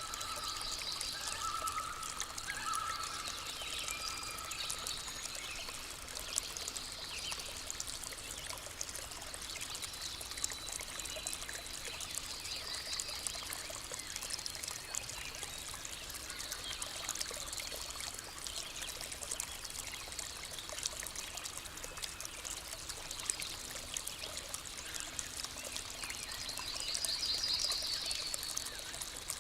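Steady flowing water like a stream, with birds calling now and then in short trills over it, the loudest trill near the end.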